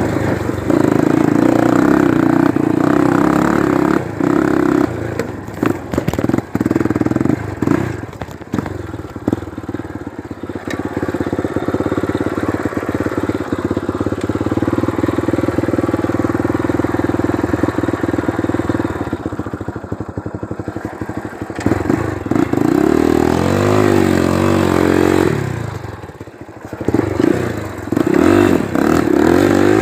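Honda single-cylinder four-stroke trail motorcycle under way on a dirt trail, its engine running hard with the revs rising and falling. Short clattering knocks come through in the first half. Near the end the revs swing up and down, then dip briefly.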